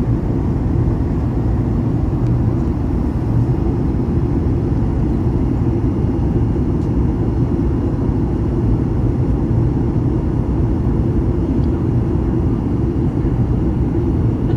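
Steady low cabin rumble of a Boeing 737-900ER in flight, the drone of its engines and the airflow over the fuselage, even in level throughout.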